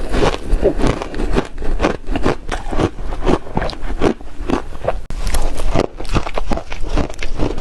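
A person biting and chewing ice, a quick run of crisp crunches, a few each second.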